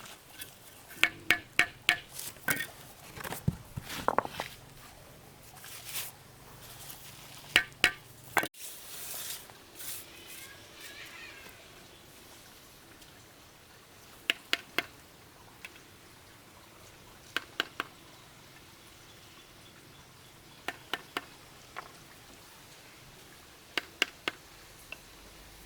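Sharp knocks or clicks, many close together at first and then in small clusters of two or three about every three seconds.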